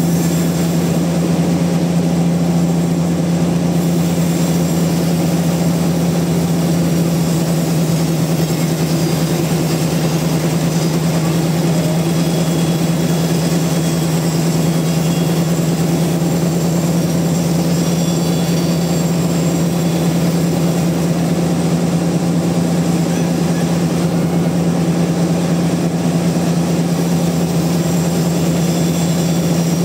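Sawmill machinery running steadily: a loud, constant drone at one unchanging pitch, with no rise or fall in speed or load.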